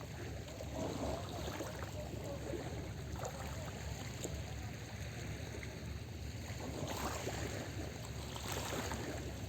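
Small sea waves lapping and washing onto the shore in a steady hiss, with a few louder washes about a second in and twice near the end.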